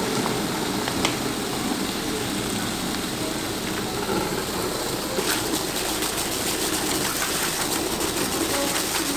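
Water running steadily into a bucket of dishwashing-liquid car-wash mix, a constant rushing splash as the suds build up.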